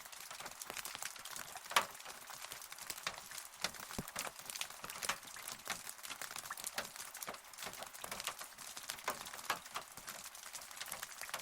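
Rain falling, heard as a steady hiss with many close, irregular drop impacts ticking on a hard surface; one louder drop strikes about two seconds in.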